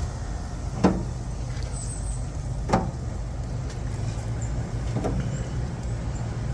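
Three short knocks as chicken leg quarters are set on the smoker's grate, about a second in, near three seconds and about five seconds in, over a steady low hum.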